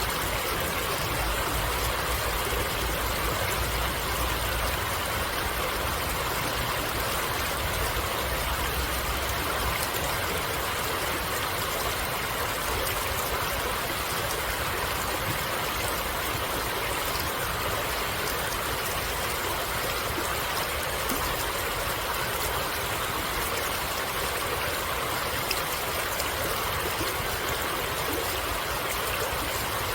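Stream water flowing steadily, with a low rumble underneath for roughly the first ten seconds.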